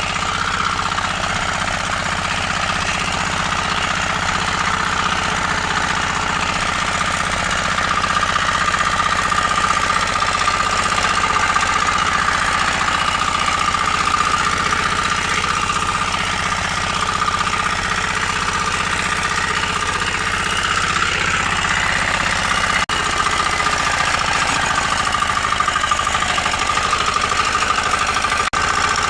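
Engine of a 9.5 hp power weeder running steadily at an even speed.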